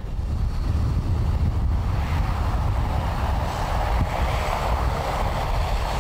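Boeing 777-200 in flight heard from the flight deck: a steady rush of airflow and engine noise over a deep rumble.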